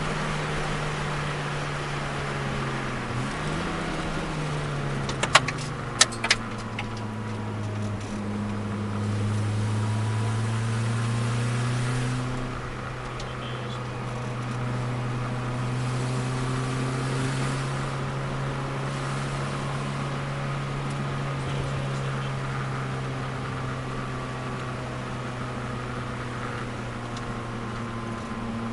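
Turbocharged Nissan Micra's four-cylinder engine heard from inside the cabin; its note drops a few seconds in. About five to six seconds in, three sharp clanks come as the vibrated-loose turbo assembly drops off the exhaust manifold. The engine then runs on at a steady, lower note.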